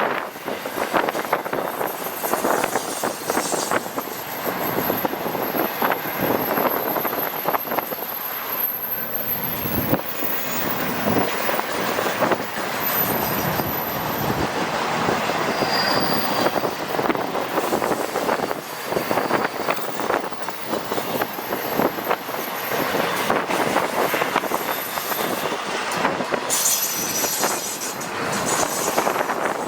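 Freight train cars rolling past, a steady rumble and clatter of wheels on rail with intermittent high-pitched wheel squeal.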